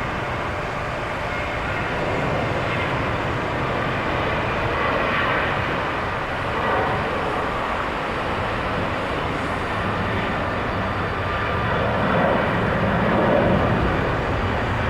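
Airliner jet engines running, a steady rushing noise that swells a little near the end.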